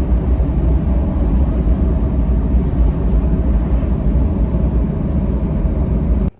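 Steady, loud engine and road noise from a vehicle on the move, heavy in the low rumble.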